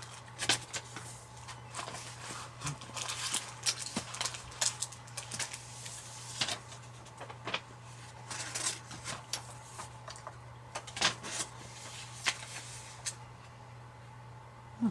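Scattered short clicks and crinkles from a dark chocolate bar being broken, handled and eaten close to the microphone, over a steady low hum.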